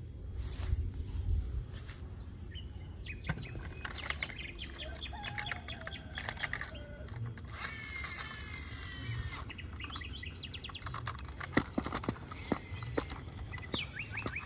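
Birds chirping in runs of short, quickly repeated high notes, over a steady low outdoor rumble with scattered clicks.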